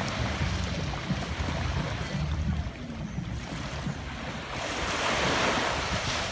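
Ocean waves washing on the shore, with wind rumbling on the microphone; a wave surges in louder about five seconds in.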